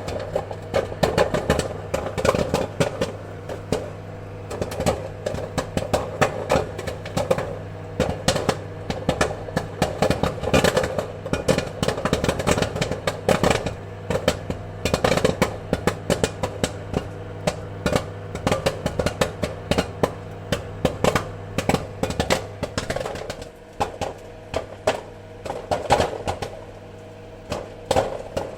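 Popcorn kernels popping in quick, irregular succession, many sharp pops overlapping, over a steady appliance hum.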